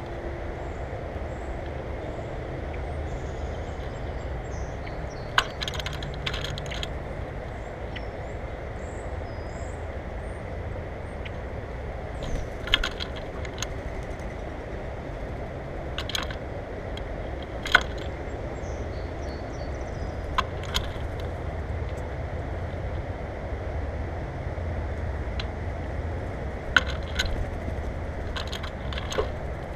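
Birds at a seed feeder making scattered sharp clicks and taps, some in quick little clusters, over a steady low rumble of outdoor background.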